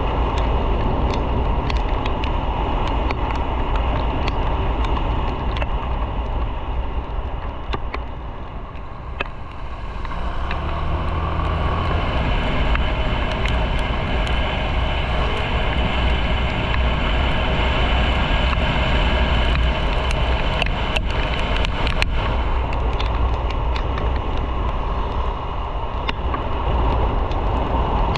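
Motorcycle engine running with road and wind noise while riding. The engine eases off about eight seconds in, then picks up again and runs steadily.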